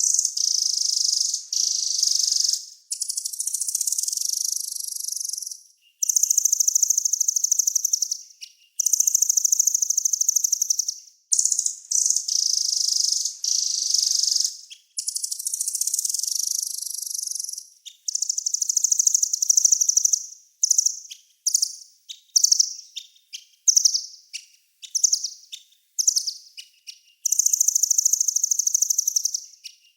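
Small songbird singing very high, rapid buzzing trills in bouts of one to three seconds separated by short pauses, breaking into many quick short bursts in the second half. It is a birdsong tutoring recording (masteran) for caged songbirds.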